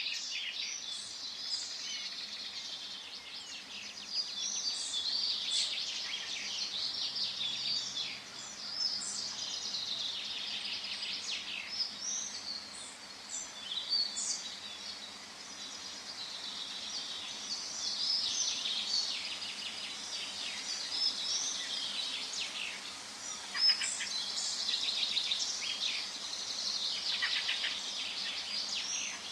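Many small birds singing at once: a dense chorus of quick chirps, trills and twitters that keeps going, in forest ambience.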